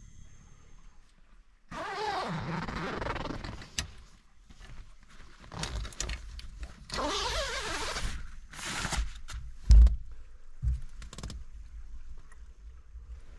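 A zipper pulled in two long rasps, the first about two seconds long and the second about a second, then a single loud thump a second or so later.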